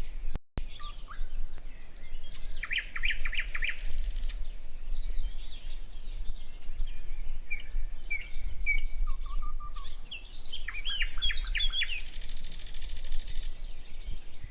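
Several birds calling and singing in short chirps and quick trills. A pulsing high buzz comes in near the end, with a low rumble underneath throughout.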